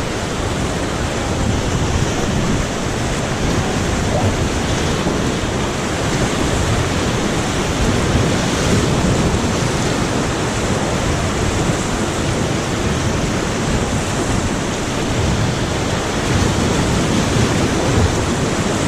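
Steady rush of fast-flowing white-water river.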